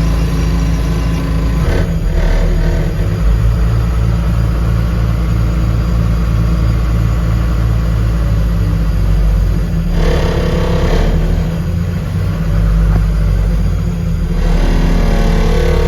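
Cummins diesel engine of a 1993 Ottawa Commando 30 yard spotter truck running loudly just after start-up, its note swelling briefly about ten seconds in and again near the end.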